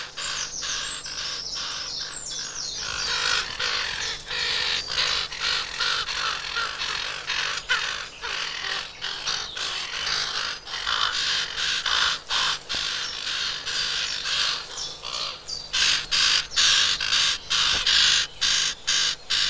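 Common raven nestlings begging in the nest, a dense run of rapid, overlapping calls that grows fuller about three seconds in and again near the end.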